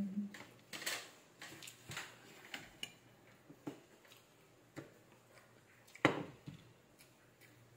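Close-up eating sounds: a person chewing pancake, with scattered soft mouth clicks and smacks, and one louder knock about six seconds in.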